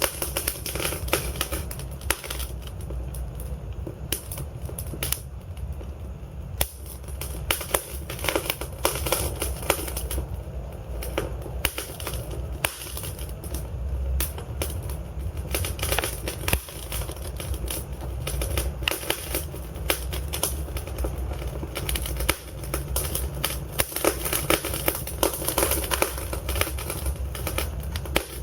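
Wood fire burning in a fireplace: a steady low rumble of the flames with dense, irregular crackling and popping from the logs.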